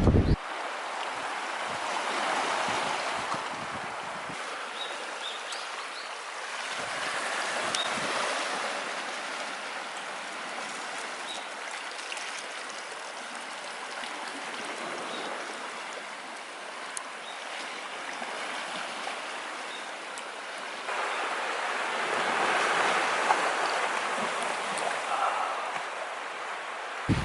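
A wood fire burning with a steady rushing hiss that swells and fades, with small scattered crackles.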